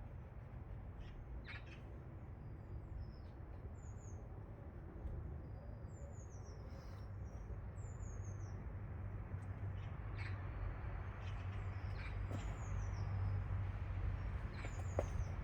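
Small birds chirping: short, high, falling calls repeated every second or two over a steady low rumble, with a few faint clicks.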